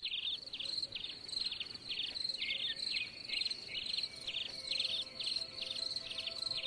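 Crickets chirping in quick pulsed trills, about three a second, over a steady high-pitched buzz. Faint steady tones come in softly partway through.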